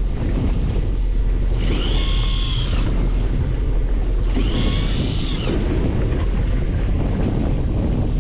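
Wind buffeting the microphone over the steady low rumble of a fishing boat at sea. Twice a brief high whine, about a second each, rises and falls in pitch.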